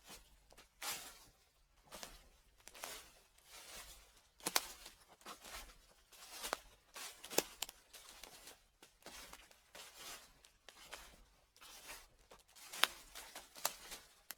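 Footsteps crunching through dry fallen leaves at a steady walking pace, about one step a second, each step a crackling rustle with a few sharper snaps.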